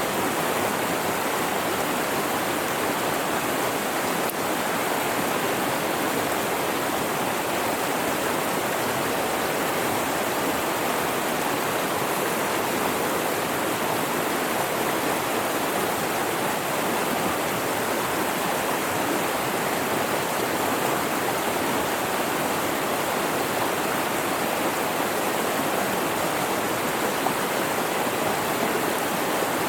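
Mountain river flowing, a steady, even wash of running water with no breaks.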